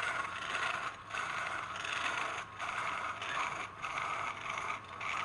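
Wood being worked on a spinning lathe: a scraping hiss in repeated passes of about a second, each broken by a short gap.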